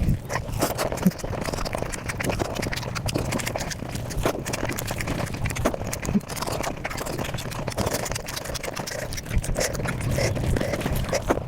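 Close-miked eating sounds sped up about five times: a rapid, continuous patter of chewing, crunching and mouth clicks.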